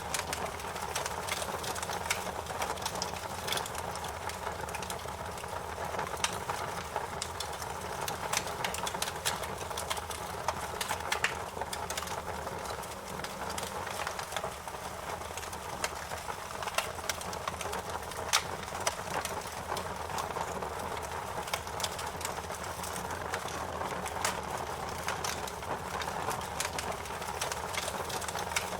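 Wood fire burning in a fireplace, crackling steadily with frequent sharp pops and a few louder snaps among them.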